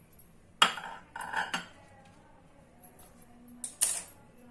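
Metal kitchen utensils clinking and knocking: a quick run of three or four clinks about half a second to a second and a half in, and two more near the end.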